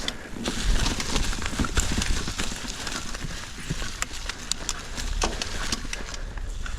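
Mountain bike rolling over a rough, technical trail: many quick knocks and rattles as the tyres and frame hit rocks and roots, over a steady low rumble of wind on the helmet camera's microphone.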